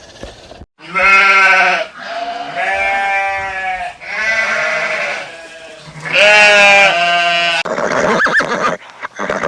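A farm animal bleating: a run of about five long, pitched calls, each around a second, followed near the end by a harsher, noisier call.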